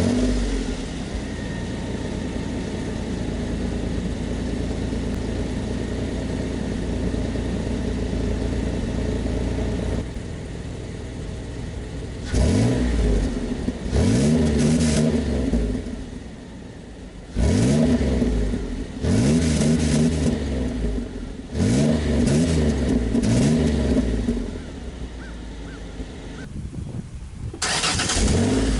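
2004 Ford Sport Trac's V6 running through its stock muffler and rusted side-exit tip, idling steadily, then revved in several quick blips from about halfway through, each rising and falling back to idle, with one more rev near the end.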